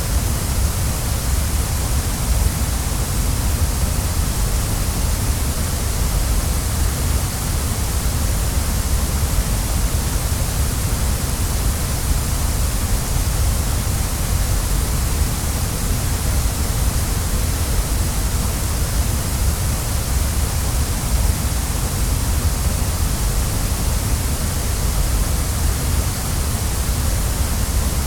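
Waterfall: a steady, unbroken rush of falling water, with a deep low rumble under a bright hiss.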